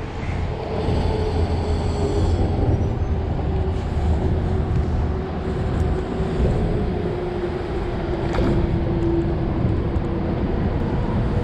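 A passing vehicle: a steady rumble with a drone that slowly drops in pitch.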